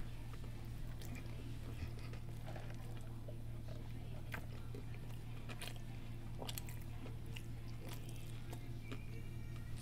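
Quiet, close-miked mouth sounds of a person eating and drinking: chewing and a sip through a plastic straw, with scattered small clicks over a steady low hum.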